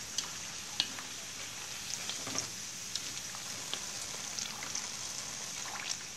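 Sugar-marinated green banana slices deep-frying in a wok of hot oil: a steady sizzle with scattered sharp pops and crackles.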